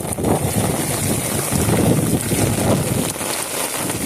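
Strong wind gusting against the microphone, a loud rough rumble that surges and eases.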